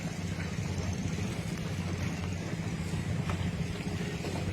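Scania 550 hp V8 marine diesel of a riverboat running steadily under way, a deep, even exhaust rumble with a fast pulse.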